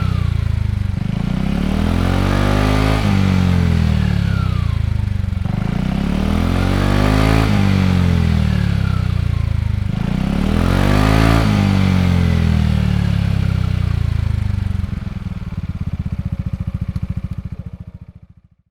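Yamaha XMAX scooter's single-cylinder engine through a Yoshimura Cyclone exhaust, revved up and let fall back several times in a row. It then settles to a steady idle and dies away near the end.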